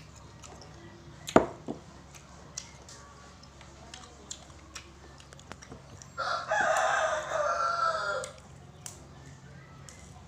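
A rooster crowing once, a single call of about two seconds past the middle. Earlier comes one sharp click, with a few smaller clicks around it.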